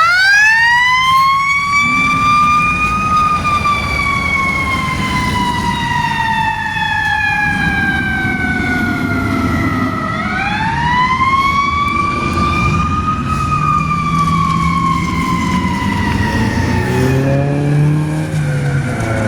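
Fire engine siren wailing in long slow cycles: the pitch rises for about three seconds and falls slowly for about seven, then rises and falls again. The truck's engine rumbles underneath, and a few quicker, lower sweeps come in near the end.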